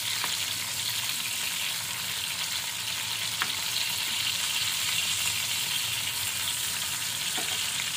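Raw-mince kababs sizzling steadily as they shallow-fry in oil on a tawa, with a couple of faint clicks of a metal spoon against the pan as they are turned over.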